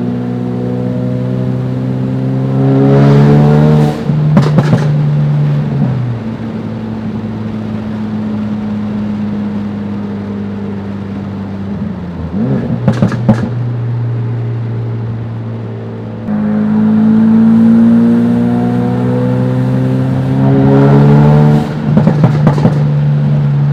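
Tuned Ford Focus RS 2.3-litre turbocharged four-cylinder pulling hard twice, its pitch climbing each time, then cut off abruptly with a quick run of sharp exhaust pops and crackles from its pop-and-crackle tune; another short burst of pops about halfway through, with the engine cruising steadily between.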